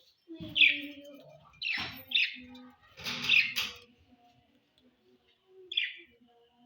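Pet parrots, such as budgies, giving a handful of short, harsh chirps and squawks, with a lull before a last call near the end.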